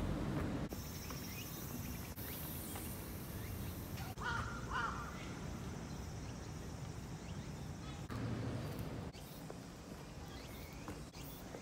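Outdoor park ambience with a steady low background noise, and two short bird calls a little over four seconds in.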